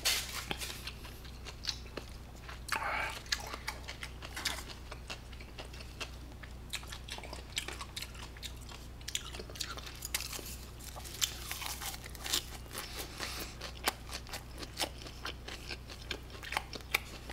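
Close-miked chewing of grilled pork belly, with scattered sharp clicks of wooden chopsticks against the foil tray, over a faint steady low hum.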